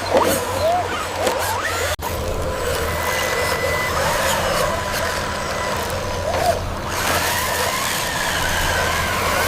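Small electric motors whining, their pitch rising and falling, over a steady low hum, cut off sharply once about two seconds in.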